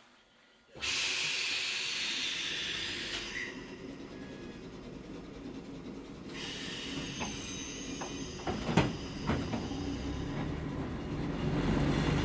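Hakone Tozan Railway Moha 1 car, heard from inside: a sudden loud hiss starts about a second in and fades after a couple of seconds, then a second hiss comes halfway through. A few sharp knocks follow, and a low running rumble builds toward the end as the car starts to move.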